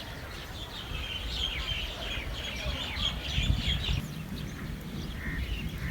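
Many small birds chirping in a busy chorus of short, high, quick chirps, thickest in the middle, over a low rumble.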